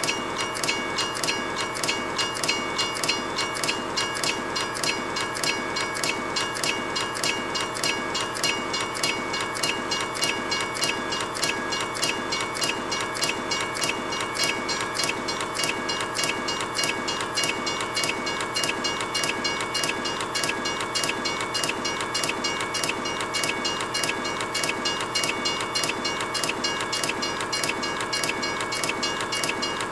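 Train running along the rails: a steady, even clatter of the wheels at about four beats a second, with a high steady ringing tone running through it.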